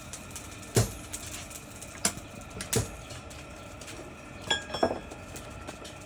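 Pieces of metal knocking together in about five irregular clanks, one of them a little past the middle ringing briefly.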